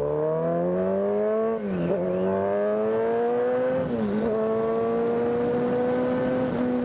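Kawasaki ZX10 sport bike's inline-four engine accelerating hard through the gears. The pitch climbs, drops briefly at an upshift about one and a half seconds in and again about four seconds in, then holds nearly steady.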